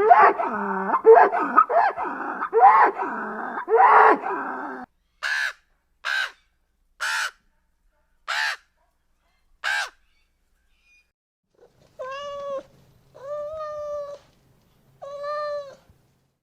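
A series of animal calls in three groups: a dense run of overlapping calls, then five short harsh caw-like calls about a second apart, then three longer, steadier calls near the end.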